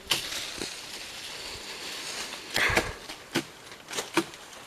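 Leafy tree branches rustling and shaking, then several sharp cracks or knocks, about four of them, as fodder branches are cut and pulled in the tree.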